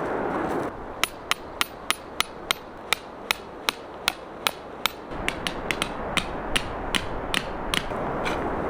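Metal hammer striking a tent peg, a dozen evenly spaced ringing blows, then a quicker run of lighter taps.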